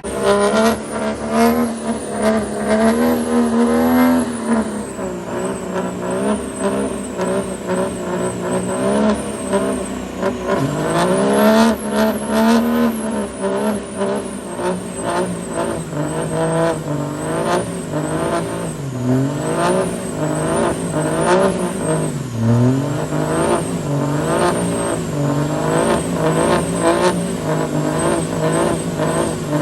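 A truck engine revving hard and held high, its pitch dropping and climbing back up several times, with a crackling edge throughout.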